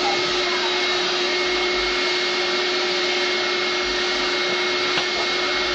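Vacuum cleaner running steadily: a rush of air with a constant motor hum and a higher whine over it.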